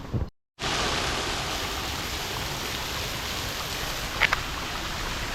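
Creek water running steadily over rocks, a constant rushing babble, with one short click about four seconds in.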